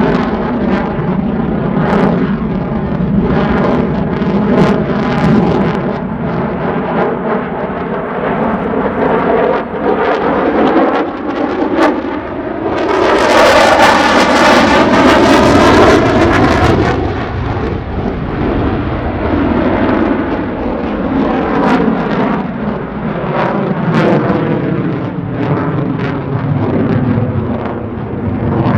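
F-16 fighter jet engine noise during an air-show demonstration, loud and continuous with crackling. It swells to its loudest for a few seconds about halfway through, with a sweeping whoosh as the jet passes close.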